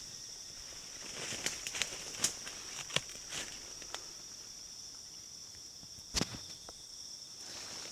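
Steady high-pitched insect drone with scattered clicks and rustles of handling, and one sharper knock about six seconds in.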